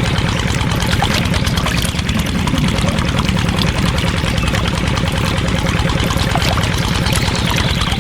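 A small motor running steadily with a fast, even chugging, like an idling engine.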